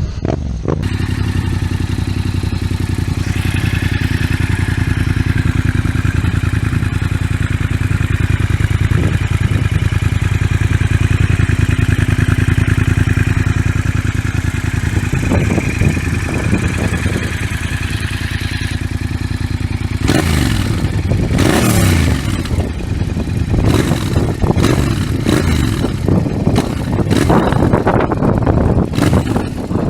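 Yamaha MT-07's parallel-twin engine with an aftermarket exhaust idling steadily. About two-thirds of the way through it is revved in a run of quick throttle blips, each rising and falling.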